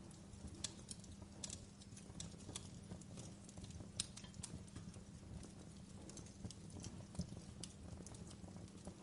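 Logs burning in a fireplace, crackling with irregular sharp pops over a low steady rumble of the flames. The loudest pops come about four and about seven seconds in.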